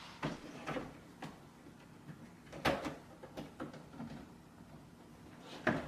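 Clunks and knocks of plastic drop-front shoe boxes and sneakers being handled: several separate hits, the loudest about two and a half seconds in and again near the end.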